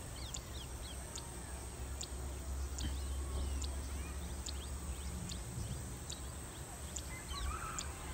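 Outdoor bird calls: a short, high chirp repeats a little more than once a second, with a few softer calls between, over a low rumble.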